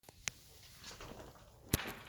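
Two faint clicks near the start and a sharper, louder click or knock near the end, over a quiet background, with no engine running.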